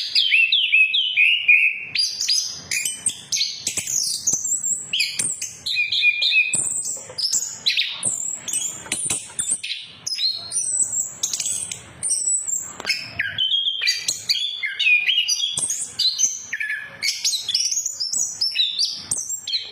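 Orange-headed thrush in full song: a long, varied stream of quick whistles, trills and chattering notes. The phrases jump up and down in pitch with hardly a pause.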